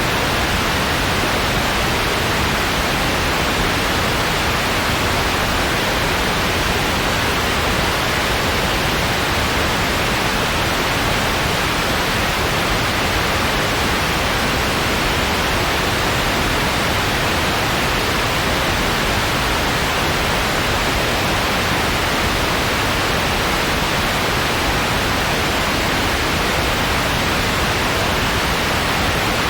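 Steady white noise: an even, unchanging hiss with nothing else over it.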